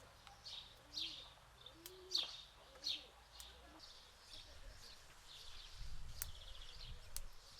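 Birds singing: a repeated falling chirp about once a second, with a few soft low calls in the first half and a quick trill near the end.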